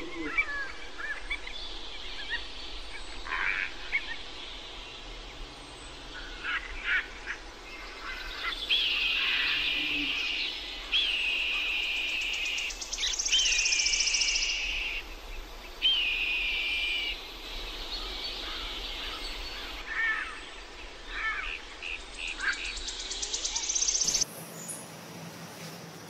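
Wild birds calling: scattered short chirps and a series of longer, high whistled calls, each about a second and a half. Near the end the sound cuts to a quieter background.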